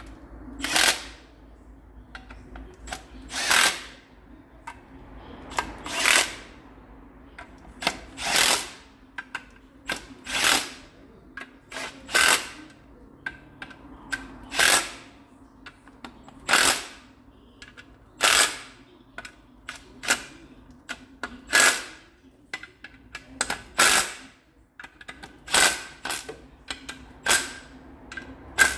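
Power tool run in short bursts of about half a second, roughly every two seconds, about fifteen times.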